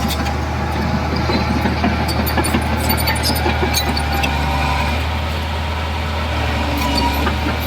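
Heavy diesel engine running steadily at a low, even hum, with scattered light metallic clicks and clanks.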